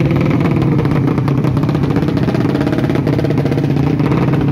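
Loud, steady running of a drag-racing motorcycle engine, a fast even pulsing that holds at much the same revs.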